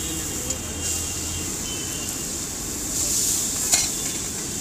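Chopped onions and tomatoes sizzling on a large iron tawa with a steady hiss, with a few metal clinks of utensils, the sharpest about three-quarters of the way through.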